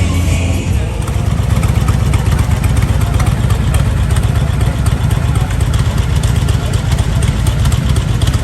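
Motorcycle engine running near idle, a steady low rumble that takes over about a second in.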